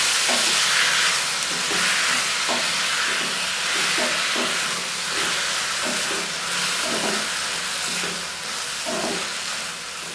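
Chopped tomatoes and onions sizzling in butter in a kadhai, with a wooden spatula stirring and scraping through them in repeated strokes. The sizzle eases a little toward the end.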